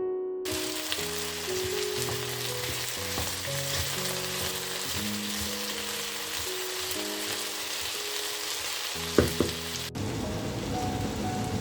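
Food sizzling as it fries in a pan: a steady hiss, with a couple of sharp knocks a little after 9 seconds. Soft piano music plays underneath, and near the end the sizzle cuts to a different, steadier hiss.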